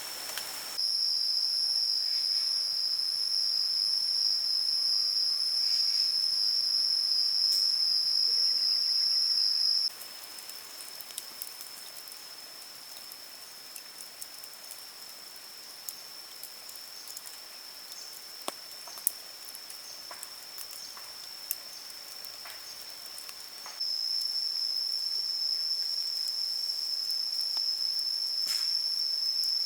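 Insects trilling in one steady high-pitched note, loud for the first third, quieter through the middle, and loud again near the end. Scattered small clicks and taps.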